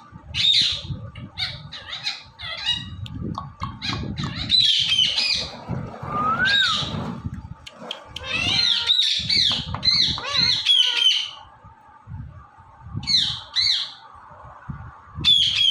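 Indian ringneck parakeet calling: a string of short, high squawks and chirps in quick runs, with one lower rising-and-falling whistle midway and a brief lull near the end.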